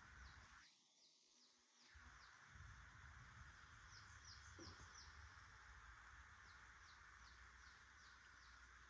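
Faint outdoor ambience: a bird's short, high, downward chirps repeating every second or so over a low wind rumble.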